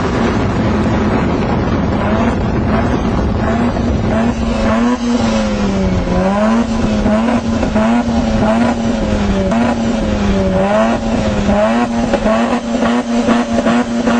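Mazda RX-8's two-rotor rotary engine revved hard through an aftermarket cat-back exhaust, held at a high steady pitch with brief dips in revs, and rapid crackling pops from the exhaust as it throws flames.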